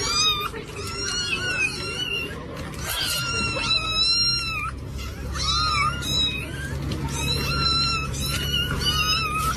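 A cat meowing over and over in high-pitched, wavering cries, one after another with only short breaks, over a steady low hum.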